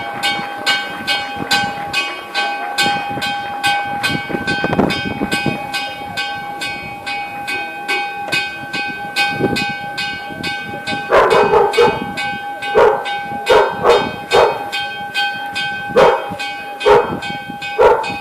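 Single church bell pealed in a fast repique, struck about three times a second with its tone ringing on between strikes. From about eleven seconds in, a dog barks repeatedly over the bell.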